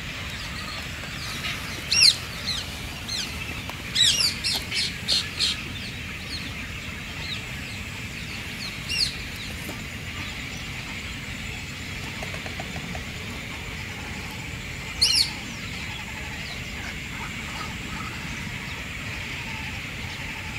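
Sharp, high bird chirps. There is one about two seconds in, a quick run of five or six between about four and five and a half seconds, and single chirps near nine and fifteen seconds, all over a steady outdoor background hiss.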